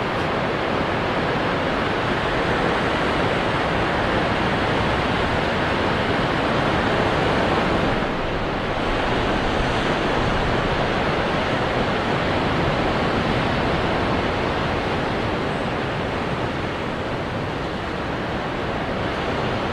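Ocean waves breaking on rocks: a continuous rushing wash of surf that swells and eases only slightly, with a brief lull about eight seconds in.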